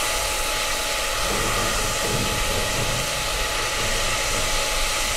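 Onion, tomato and ginger-garlic paste sizzling in hot oil in an aluminium pot, a steady frying hiss, while a silicone spatula stirs the masala.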